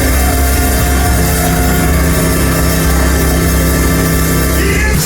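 Loud live church band music, with drums under steady held chords.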